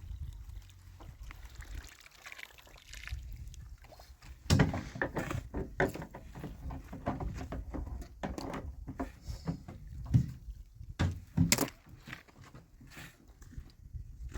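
Irregular knocks and clatter of things being handled, thickest from about four seconds in, over a low steady rumble.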